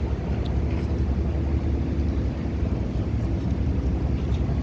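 Steady low rumble of street background noise.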